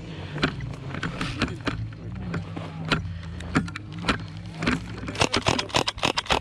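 Airsoft guns firing, sharp cracks scattered through and a quick run of shots near the end, over a small engine running steadily at a low pitch.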